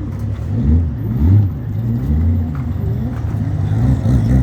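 Motor vehicle engine running close by, its low pitch rising and falling again and again as it speeds up and slows down.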